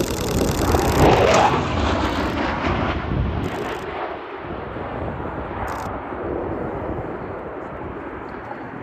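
Eurofighter Typhoon jet fighter making a fast low pass, the roar of its two EJ200 turbofan engines. The roar peaks about a second in with a falling pitch as the jet goes by, then slowly fades away.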